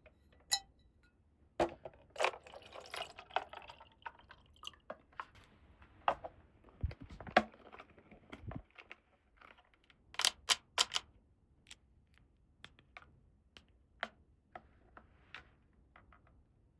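Small plastic toy pieces being handled: scattered clicks and taps, with a brief rustle of packaging about two seconds in and a quick run of three clicks past the middle.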